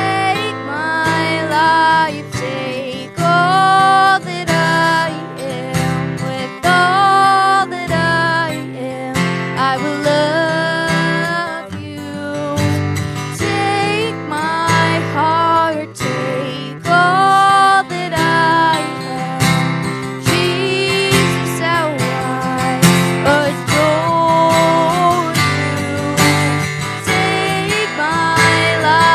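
Live worship music: strummed acoustic guitar with a gliding melody line over the chords.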